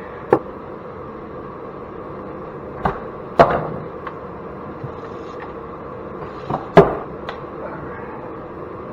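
Scrap parts knocking together as they are handled: five or so sharp knocks, the loudest about three and a half seconds in and just before seven seconds in, over a steady low hum.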